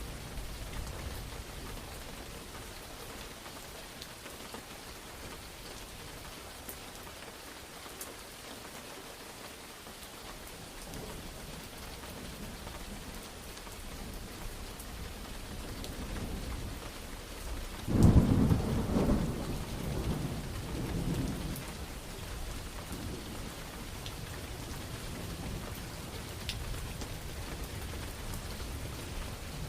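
Steady rain falling, with a sudden loud thunderclap over halfway through that rolls on and fades over a few seconds. Fainter low thunder rumbles near the end.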